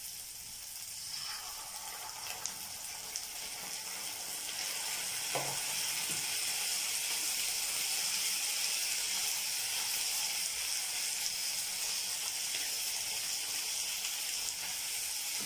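Diced onion and ginger paste sizzling in hot oil over a high flame. The steady hiss grows louder a few seconds in, and there is a light knock about five seconds in.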